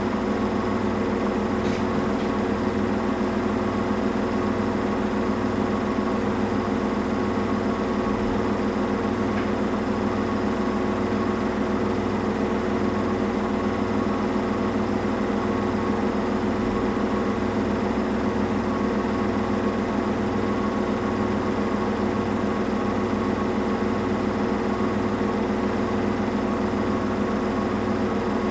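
Samsung Eco Bubble washing machine running steadily through a cotton wash, a constant motor hum with a low throb repeating about once a second.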